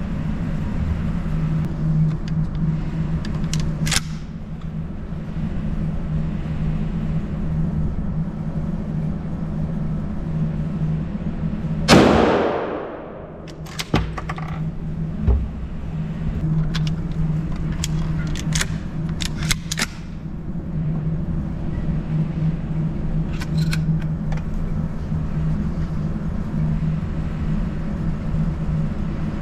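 One loud 12-gauge shotgun shot about twelve seconds in, echoing and dying away in an indoor range, over a steady low hum. Scattered sharp clicks and knocks come before and after it.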